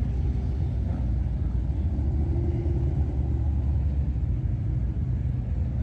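Car engine idling close by: a steady low rumble.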